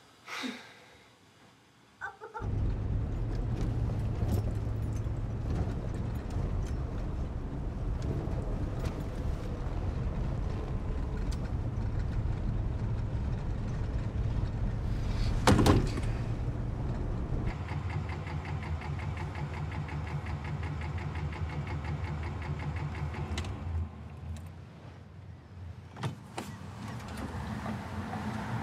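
An old car's engine running, heard from inside the cabin while driving: a steady low rumble that starts suddenly after about two seconds of quiet, with one sharp knock about halfway through. Near the end the engine sound drops away and there are a couple of clicks as the driver's door is opened.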